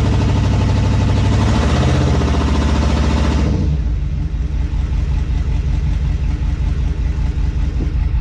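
Gasoline V8 engine of a 2002 2500HD pickup revved hard for about three and a half seconds, then dropping back to a lower, steady run. The truck is being given throttle in gear but won't move, which the owner puts down to low transmission fluid after long sitting.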